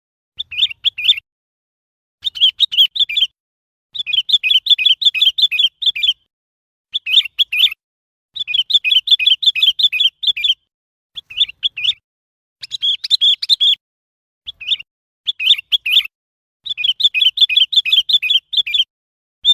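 Sooty-headed bulbul singing: about ten short phrases of rapid, bubbly notes, each lasting a second or two, repeated with brief pauses between.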